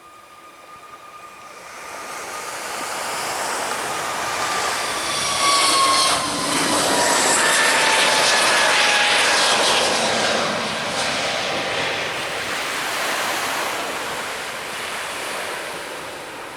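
Airliner passing low overhead: its engine noise builds up, peaks in the middle and slowly fades, with a whine that glides down in pitch as it goes by.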